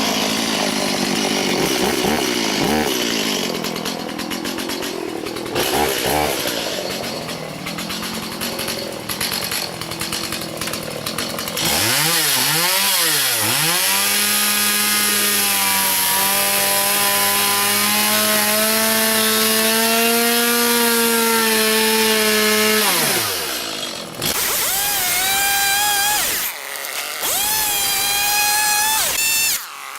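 A power saw cutting up a homemade wooden jon boat. It makes ragged cutting noise for the first ten seconds or so, then runs at a steady high whine for about ten seconds, its pitch dipping and recovering at the start. After that come several short revs.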